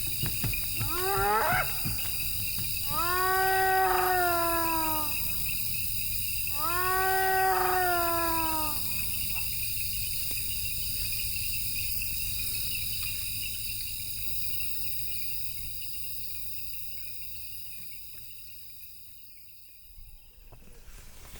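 Three drawn-out animal calls, each pitched with many overtones: a short rising one, then two long calls that fall slightly in pitch. A steady high-pitched drone runs underneath and fades away near the end.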